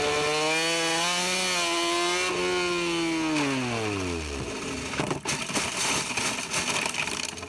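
Racing motorcycle engine running at high revs, its pitch falling steeply from about three seconds in as the revs drop away. It gives way to a rough, irregular scraping and clattering noise.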